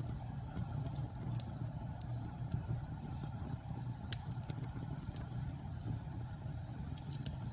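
Wood bonfire burning with a low steady rumble and a few sharp crackles and pops scattered through it.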